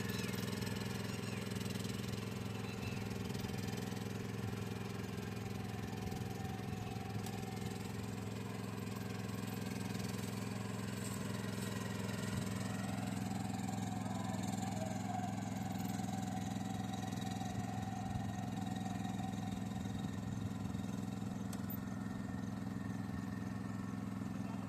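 Engine of a Mahindra rice transplanter running steadily at an even speed.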